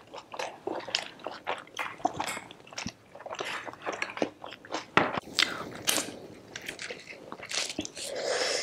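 Close-miked eating sounds: biting and chewing, with many short wet mouth clicks and small crunches. Near the end comes a longer rustling tear as a fried puri is pulled apart by hand.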